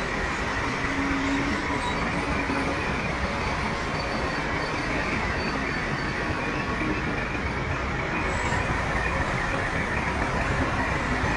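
Shantui crawler bulldozer working, its diesel engine running steadily under the rattle of its steel tracks.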